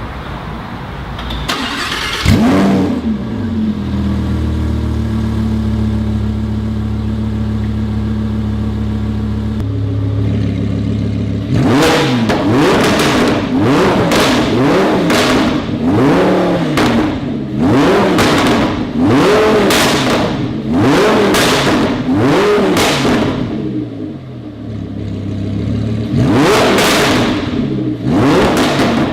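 High-performance engine breathing through an expensive aftermarket exhaust, idling steadily, then blipped repeatedly with sharp throttle revs about once a second. It settles briefly and is revved again near the end.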